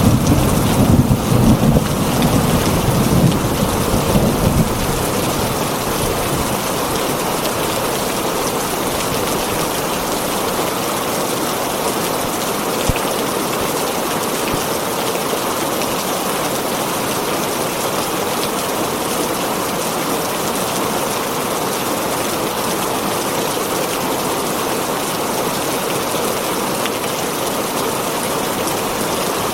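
Heavy rain drumming steadily on a tin roof. A low rumble of thunder at the start dies away after about four seconds.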